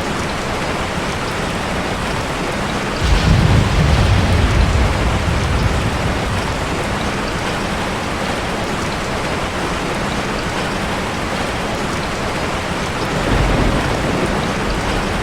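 Heavy rain falling steadily, with a rumble of thunder starting about three seconds in and lasting a few seconds, and a weaker rumble near the end.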